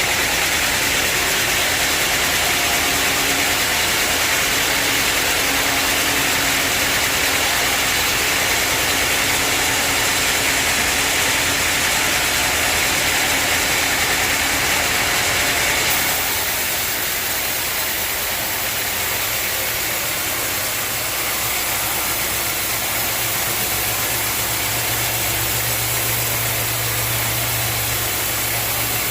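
Sawmill machinery running, a steady loud mechanical noise. About halfway through it changes and drops slightly, and a steady low hum comes in.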